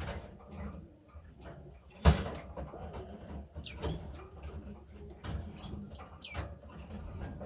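Bird cages and doors being handled: a sharp knock about two seconds in, then smaller clicks and clatters. Two short, falling high calls from small cage birds come in between.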